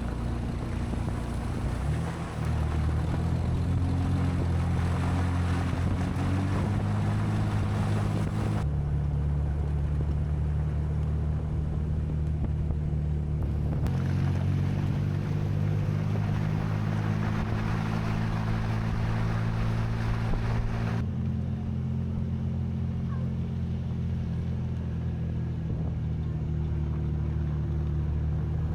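Jeep engine running at a steady low drone while driving, in several clips cut together, so the drone changes abruptly about three times.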